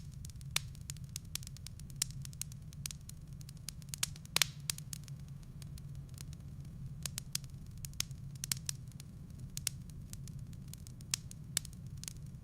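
Wood fire in a fireplace crackling, with irregular sharp pops from the burning firewood over a steady low rumble; the loudest pop comes about four seconds in.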